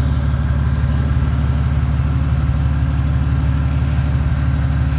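Ford AU Falcon engine idling steadily on its first run after being swapped into an ED Falcon wagon, exhaust dumping straight out of the catalytic converter with no exhaust system fitted. It is warming through its first heat cycle, with timing not yet set properly.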